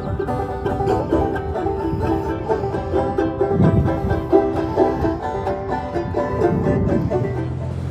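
Banjo being picked in a quick, busy run of plucked notes, in a bluegrass style. Near the end the picking stops and a steady low hum takes over.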